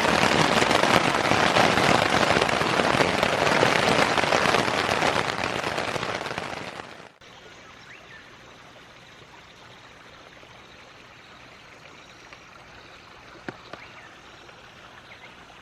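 Heavy rain pelting down as a loud, dense hiss for about seven seconds, then an abrupt cut to a much quieter steady wash of running creek water.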